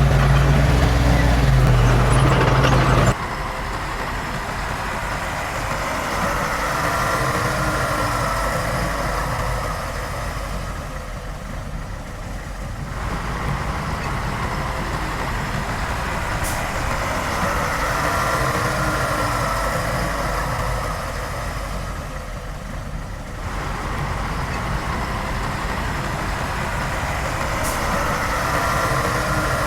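Diesel engine of heavy earthmoving machinery running. About three seconds in it cuts abruptly to a quieter engine sound that swells and eases back roughly every ten seconds, with a whine rising and falling each time.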